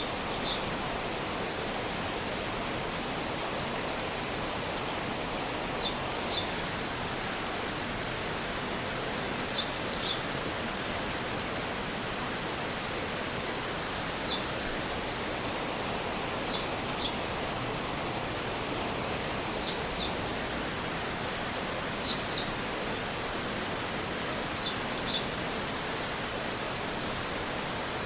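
Stream water running with a steady rush. Short high chirps come in twos and threes every few seconds over it.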